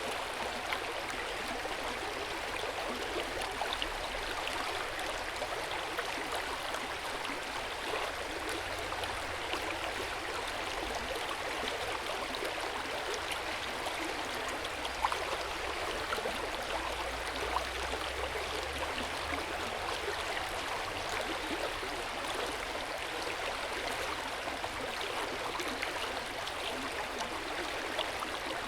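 Hot spring water running into an open-air onsen bath: a steady splashing hiss with small splashes and drips here and there.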